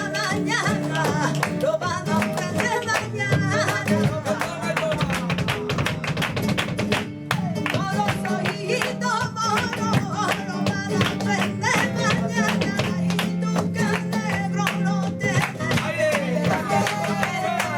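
Flamenco tangos played live on acoustic guitar, with a cante singer's wavering voice near the start and again near the end, over dense, sharp rhythmic percussive strikes.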